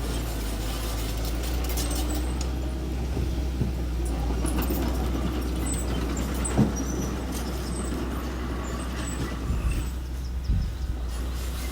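Engine of a small earthmoving machine running steadily with a low drone, with a single sharp knock about two-thirds of the way through.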